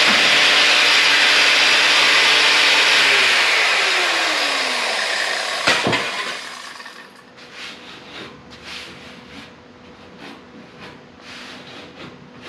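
A power cutting tool running in the car's sheet-metal body, then released so its motor winds down about four seconds in. A sharp metal knock follows near six seconds, then a run of short scraping strokes, about two a second.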